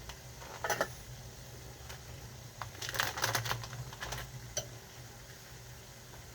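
Cooking utensils being handled: short bursts of clicking and rattling just under a second in and again around three seconds in, then a single click, over a steady low hum.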